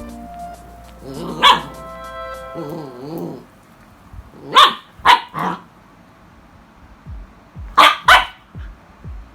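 A dog barking in short sharp barks: one about a second and a half in, then a quick run of three, then two more near the end. Background music plays under the start.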